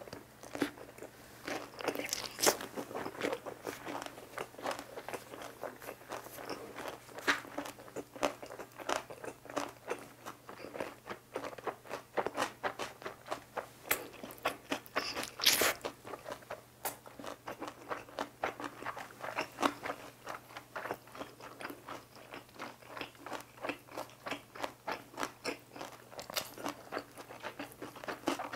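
A person chewing crunchy food right at a clip-on microphone: a fast, irregular run of crunches and wet mouth clicks, with a few louder crunches about two and a half seconds in and again about fifteen seconds in.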